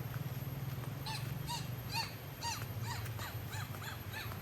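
A bird calling in a series of short, arched notes, about two a second at first and quickening toward the end, over a steady low rumble.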